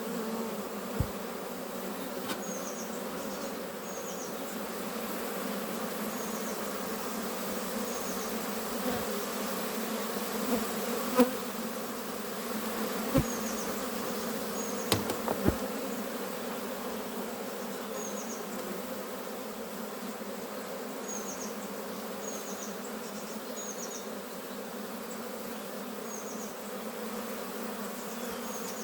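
Honeybees buzzing in a steady hum around the hive, with a few sharp knocks, the loudest about eleven seconds in.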